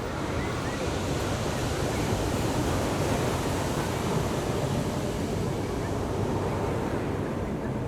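Ocean surf breaking and washing up the beach in a steady rush, swelling a little a couple of seconds in.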